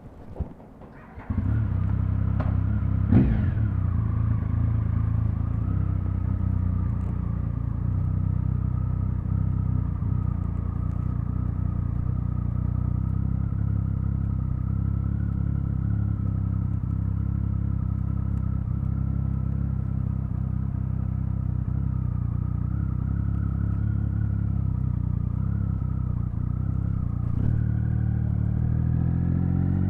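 Triumph Speed Triple 1050's inline three-cylinder engine catching about a second in, blipped once with its pitch falling back, then idling at a steady pitch. Near the end the revs climb.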